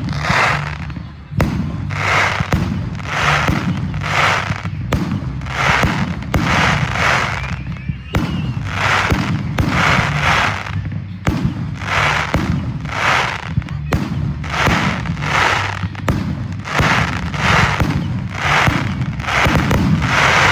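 Aerial fireworks going off in quick succession: a constant run of bangs and crackling bursts, about two a second, over a steady low rumble.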